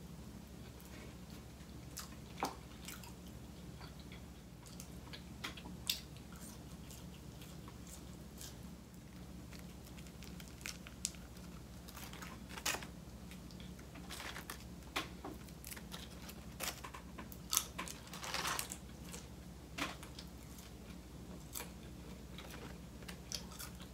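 Close-miked eating: biting into and chewing a sauced chicken wing, with wet mouth smacks and occasional crunches scattered irregularly, over a steady low hum.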